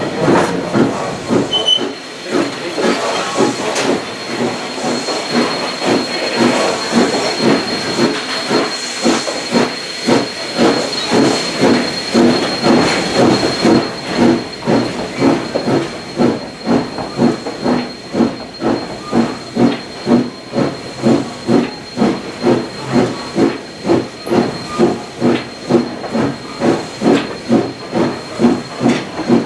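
Steam locomotive Valley Railroad Mikado #40 working steadily, its exhaust chuffing in an even beat of about two a second over a continuous steam hiss, with a thin high steady tone throughout.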